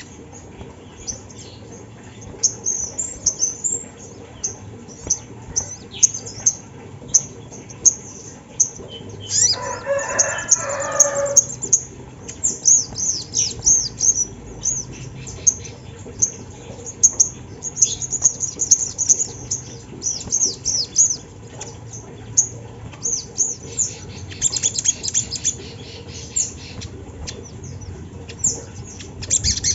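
Little spiderhunter calling: many quick, sharp, very high-pitched notes in irregular runs. About ten seconds in, a lower call with several tones lasts about two seconds.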